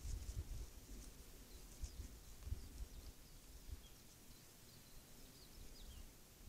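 Faint outdoor ambience: a small bird gives a series of short, high, falling chirps over a low, irregular rumble that is strongest in the first few seconds.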